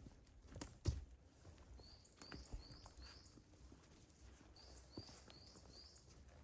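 A small bird calling two runs of four short, high chirps. A few faint knocks fall in between, the sharpest about a second in.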